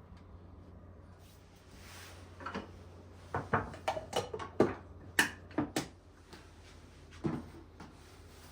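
A quick run of light knocks and clatters, about a dozen, like household objects being set down or handled, with the last one near the end, over a steady low hum.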